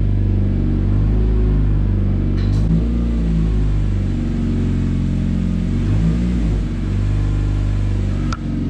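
2010 Honda Civic's four-cylinder engine running just above idle under light throttle, the revs rising and falling slightly a couple of times, with a short click near the end. The engine shakes the car with a vibration that the owners suspect comes from a worn engine mount.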